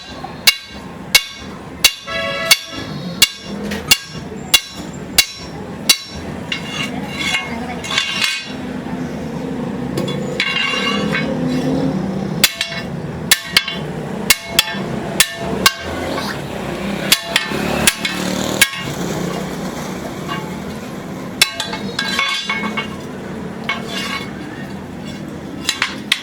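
Hammer blows on metal, each a sharp strike with a short metallic ring. They come at an even pace of about one and a half a second at first, then less regularly, with a break of a few seconds near the middle.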